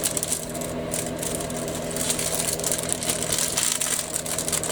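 Rapid fine scratching and clicking of small plastic model-kit parts being worked by hand, over a steady low electrical hum.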